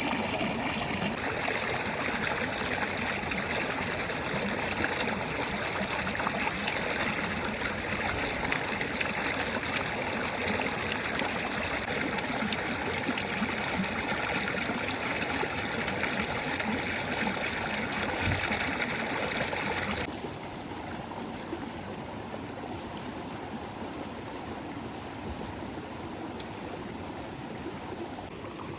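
A river flowing steadily, a continuous rush of water. About twenty seconds in it becomes quieter and duller.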